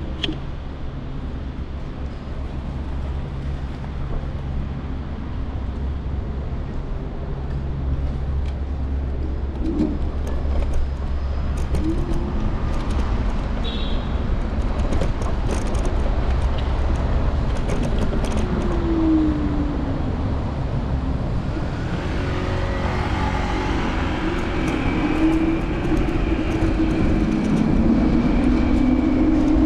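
City street traffic from a moving scooter: vehicles pass with short glides in pitch over a steady low hum. In the last third the traffic grows louder, and a vehicle's engine rises in pitch near the end as it accelerates.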